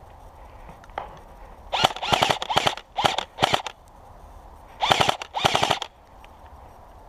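Airsoft electric gun firing in short full-auto bursts, rapid clicking volleys: a single shot about a second in, then three bursts, a pause, and two more.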